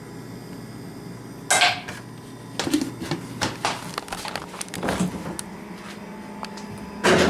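Hard plastic coffee-maker parts being handled: a loud knock about a second and a half in, a run of small clicks and taps, and another loud knock near the end.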